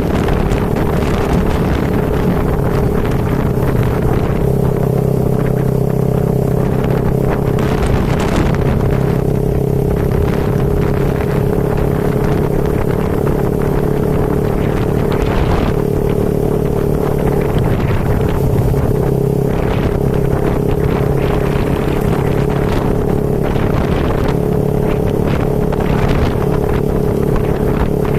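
A vehicle engine running steadily at an even speed, with wind rushing over the microphone.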